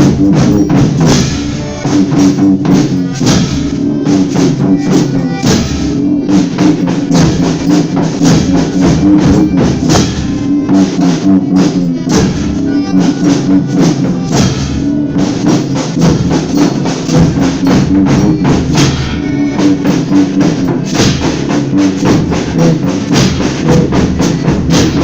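Folia band playing an instrumental passage with no singing: drums and tambourine keep a steady, dense beat under sustained pitched instrument tones.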